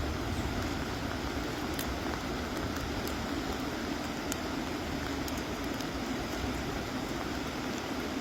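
Heavy rain falling steadily, a constant rushing hiss with scattered sharp drop ticks.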